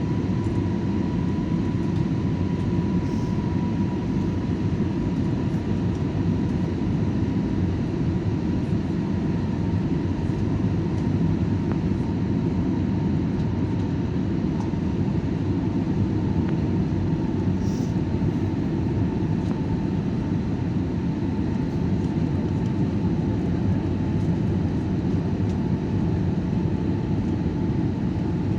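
Steady noise of an airliner's engines and airflow heard inside the passenger cabin in flight, with a faint steady whine over it.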